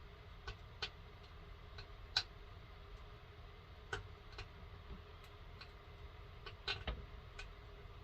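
Faint, irregular clicks and light taps of hands handling small hard parts, about a dozen in all. The loudest comes a little after two seconds, and a few come close together near seven seconds.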